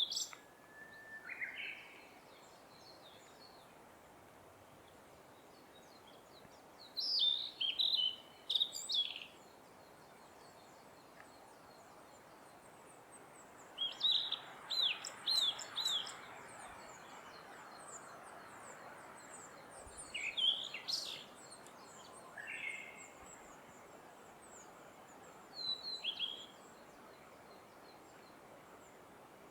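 Blue-and-white flycatcher singing: about six short phrases of clear, quick whistled notes, each a second or two long and separated by pauses of several seconds. Faint high chirps of other birds sound between the phrases.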